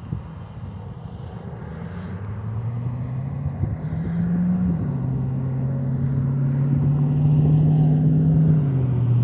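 Car engine accelerating. Its pitch climbs, then steps down as the gears change, once about five seconds in and again near the end, and it grows louder throughout.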